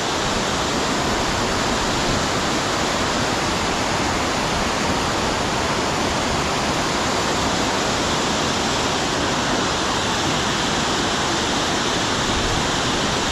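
Waterfall in full spate rushing, a loud steady wash of falling water with no breaks.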